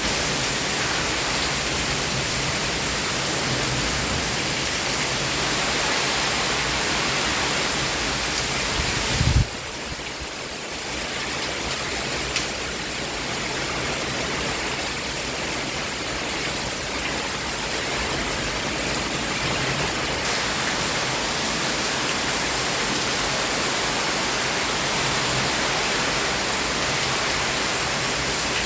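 Heavy downpour of rain, a dense steady hiss. About nine seconds in there is a brief low thump, after which the rain is a little quieter for a few seconds.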